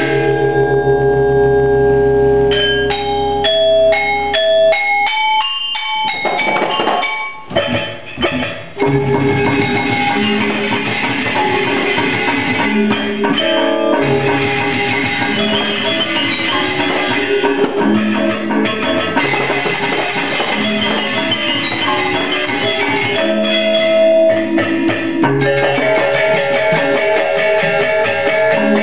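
Balinese gamelan orchestra playing live: ringing struck metal notes open, then after a brief lull about eight seconds in the full ensemble of metallophones, gongs and drums plays a fast, dense pattern.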